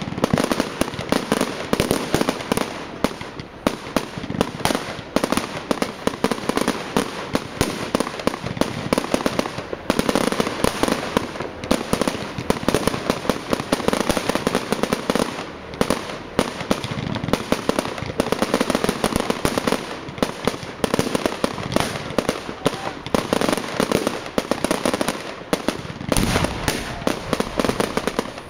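Fireworks display going off without a break: dense, rapid cracks and bangs, many a second, overlapping one another.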